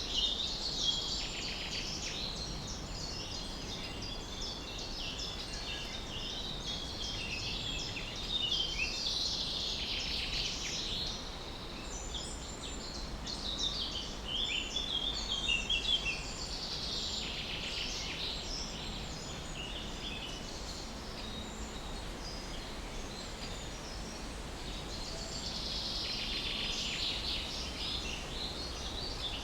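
Many birds chirping and singing at once: a dense chorus of short, high calls that swells and thins, over a steady low background noise.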